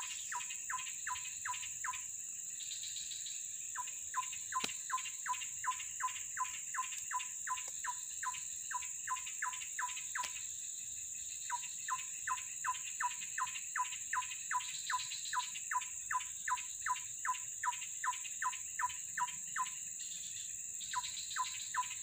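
A bird calling: a short falling note repeated about two or three times a second in long runs with brief breaks, over a steady high-pitched drone of insects.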